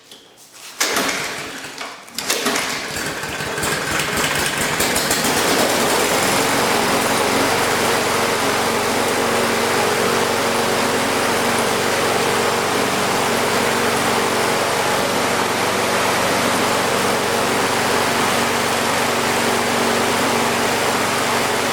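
Husqvarna LC121P lawn mower's Briggs & Stratton engine starting on the pull: a brief burst about a second in, then it catches about two seconds in and settles into steady running, staying running with its carburettor freshly cleaned.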